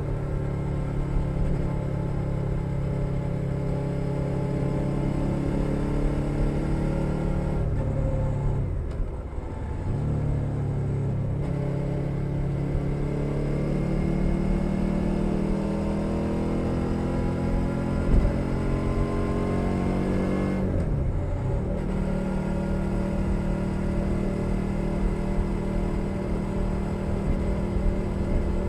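2021 Suzuki SV650's 645 cc V-twin engine running on the road through a LeoVince Nero aftermarket exhaust, heard from under the seat. The sound drops briefly about eight seconds in and again about twenty-one seconds in, and each time the pitch then rises as the engine pulls again.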